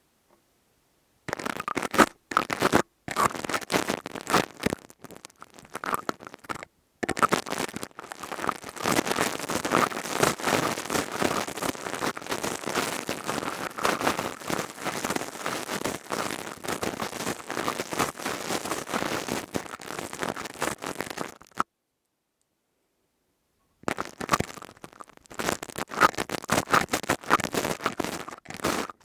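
Crystal tube scraped and rubbed as an ASMR trigger: dense crackling scratches that break off for about two seconds past the two-thirds mark, then resume.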